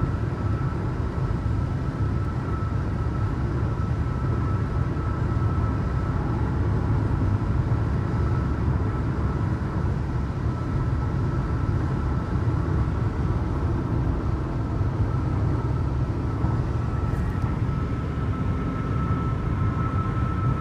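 Steady road and engine rumble of a car driving at highway speed, heard from inside the vehicle, with a faint constant high whine over it.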